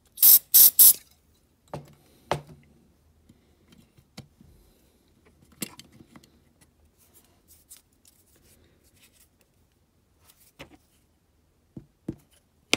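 Three sharp clicks from a small metal hand tool in quick succession, then scattered light clicks and taps of tiny parts being handled while a rivet is fitted to a diecast toy van.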